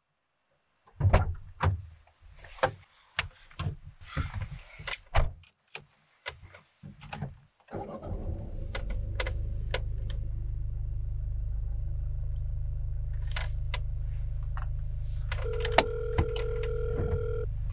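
A string of clicks and knocks inside a Peugeot car's cabin, then the car's engine starts about eight seconds in and idles with a steady low rumble. Near the end a phone's ringback tone sounds once, for about two seconds, as a call is placed.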